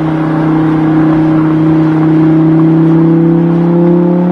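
Car engine sound, a steady note that rises slightly in pitch near the end.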